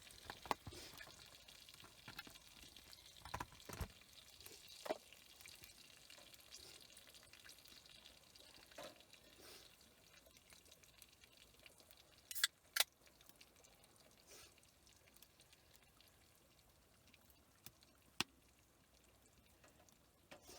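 Faint sizzling that fades away over the first few seconds, followed by scattered sharp clicks and taps: two close together about twelve seconds in and one more near the end.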